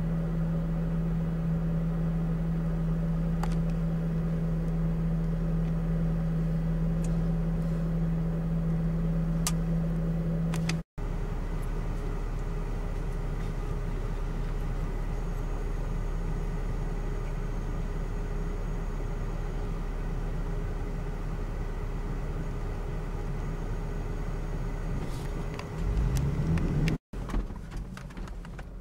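Four-wheel-drive vehicle's engine running steadily, heard from inside the cabin as a constant drone with a low hum. The sound breaks off twice at edits, and the second part is a rougher rumble of driving on a sand track, loudest just before the second break.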